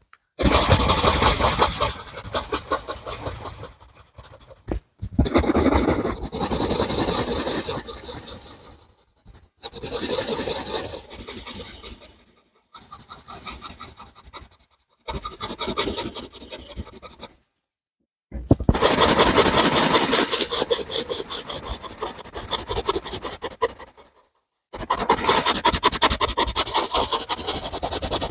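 Colouring on paper: a drawing tool scratching in fast back-and-forth strokes, in about seven spells, each broken off by a brief pause.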